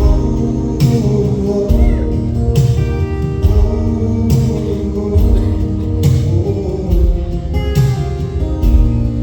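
Live band playing an instrumental break of a mid-tempo country-pop song, with guitar over a steady beat.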